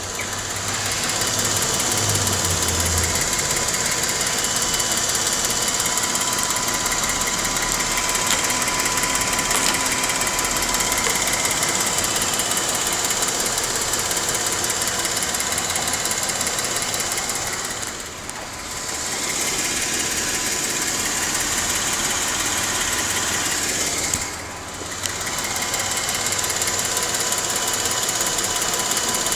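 2012 Jeep Wrangler Unlimited's 3.6 L Pentastar V6 running steadily with a rapid ticking from the engine, the engine tic the owner is recording. The sound dips briefly twice in the second half.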